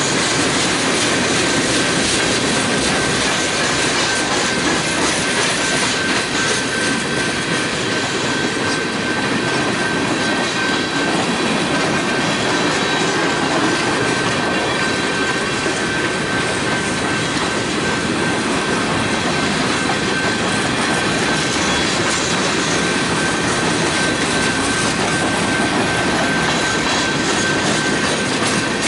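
Freight cars (boxcars, tank cars and covered hoppers) rolling past close by: steady wheel-on-rail noise and clatter, with a thin, steady high ring over it.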